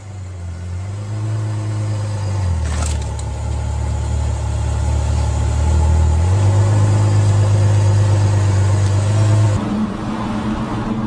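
A car engine running at steady revs, a low drone that shifts pitch twice, then changes abruptly near the end.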